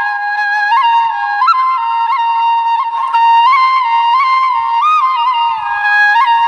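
Background flute music: a single flute melody moving in small steps around one register, with quick ornamental turns between the held notes.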